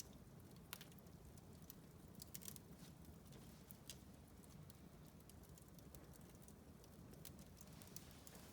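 Wood fire in a fireplace crackling faintly: irregular sharp pops and snaps over a low steady rumble.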